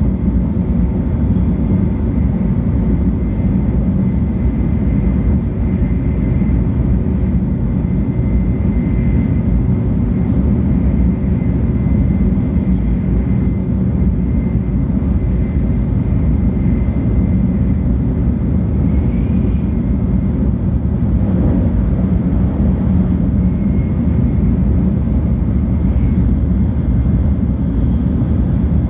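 Steady running noise of a 700 series Tokaido Shinkansen train heard inside the passenger cabin: an even low rumble of wheels and running gear with a faint high whine over it.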